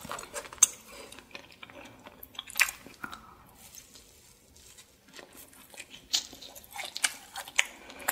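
Close-miked eating sounds: a person biting food off a skewer and chewing it, with scattered sharp crunches and mouth clicks. There is a quieter stretch in the middle.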